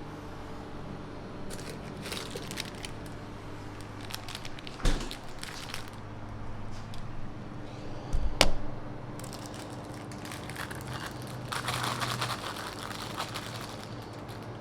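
Crinkling and rustling handling sounds, with a sharp knock about five seconds in and another, louder one past eight seconds, over a steady low hum.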